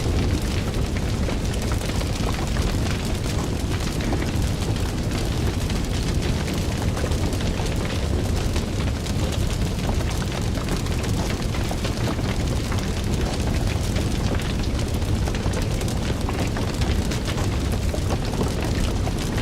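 Fire burning with a steady low roar and dense, continuous small crackles and pops.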